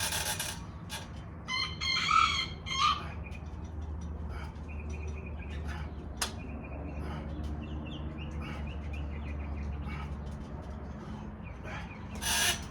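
A rooster crowing once, a call of several segments, about two seconds in, followed by scattered faint bird chirps over a steady low hum.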